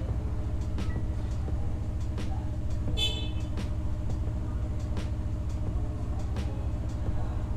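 A steady, low, rapidly pulsing engine-like drone, with a few faint clicks and a brief high tone about three seconds in.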